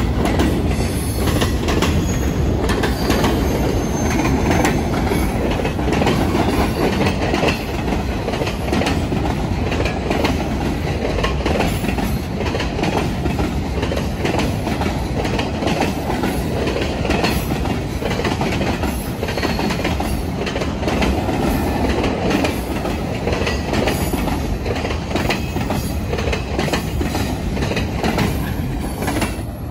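Arizona Eastern Railway freight boxcars rolling past close by: a steady rumble of steel wheels on rail with clicking over the rail joints, and now and then a thin high wheel squeal.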